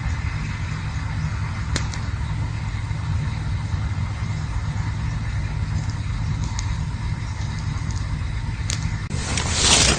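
Campfire burning with a steady low rumble, a couple of sharp crackles, and a loud rushing hiss near the end.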